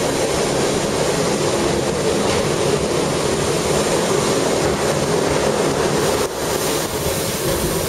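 Gornergratbahn rack-railway train running downhill, heard on board: a steady running noise that dips briefly about six seconds in.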